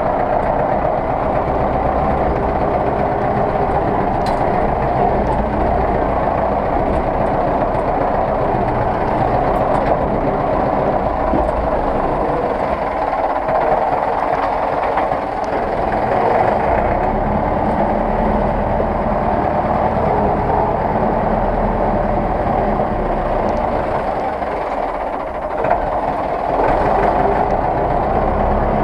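Zetor 6911 tractor's diesel engine running steadily, with a brief dip near the end.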